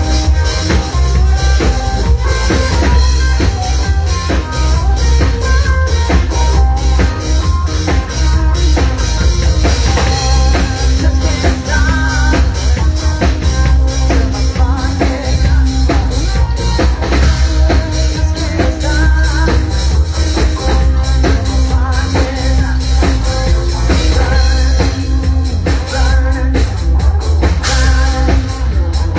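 Loud band music with a full drum kit keeping a steady beat, heavy bass and some singing.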